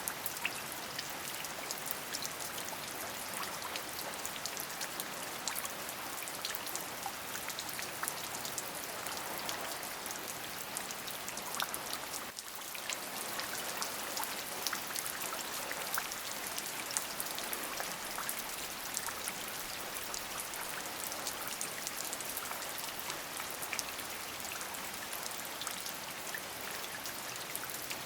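Steady rain: an even hiss full of many small, sharp drop impacts. The sound dips briefly about halfway through.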